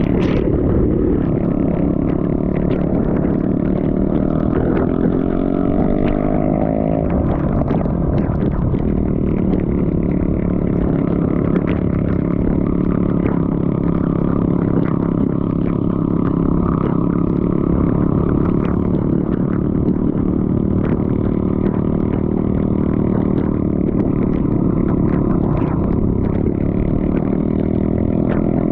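Motorcycle engine running under load while riding through mud, its pitch climbing a few seconds in and then falling back, with frequent knocks and rattles from the bike.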